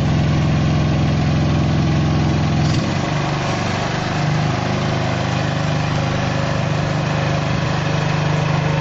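Engine-driven branch shredder running steadily. About three seconds in its engine note changes and turns rougher and noisier, as it shreds conifer branches.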